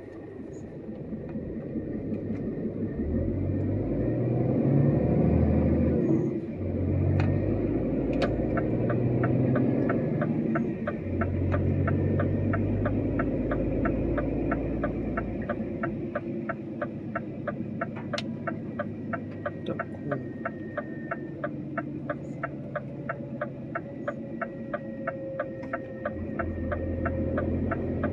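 Heavy truck's diesel engine heard from the cab, pulling up through several gears in the first half and then settling lower. From about eight seconds in, a steady ticking of about two a second, typical of the turn indicator.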